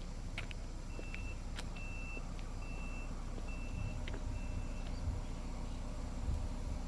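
A vehicle's reversing alarm beeping five times at one high pitch, about one beep a second, over a steady low rumble, with a few light clicks and knocks.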